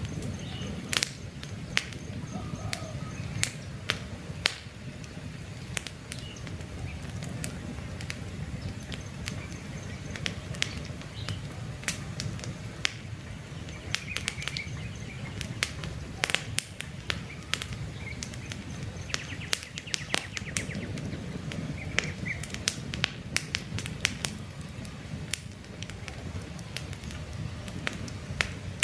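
Campfire crackling, with frequent sharp pops and snaps over the low, steady rush of the flames, and faint bird chirps in the background.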